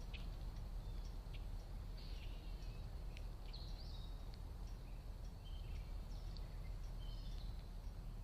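Small birds giving short scattered chirps and brief calls, several at a time, over a steady low background rumble.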